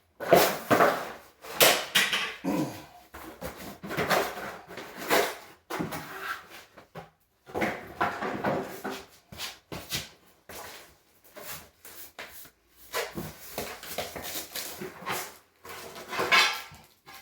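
Animal calls in repeated short bursts, some with pitches that glide downward.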